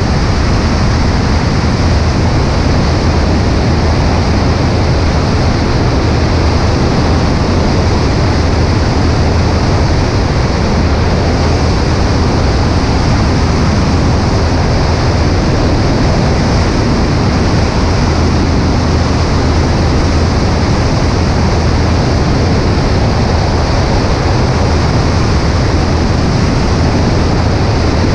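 Cessna 140A in flight: a steady, loud drone of the light-aircraft engine and propeller under a constant rush of wind.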